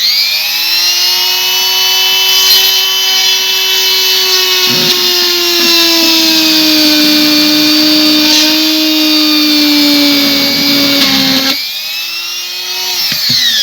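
Dremel rotary tool drilling through solid plastic: a steady high motor whine whose pitch sags slowly as the bit bites. It gets quieter about 11 seconds in, then winds down in pitch as it is switched off, the bit having gone straight through.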